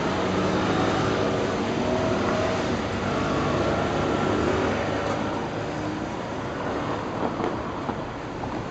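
Nankai Kada Line electric train running, a steady rumble with faint whining tones that glide up and down, easing off a little toward the end.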